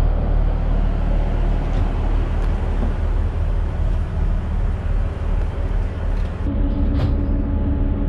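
Steady low rumble and drone of a diesel train running along. A higher steady engine hum joins about six and a half seconds in.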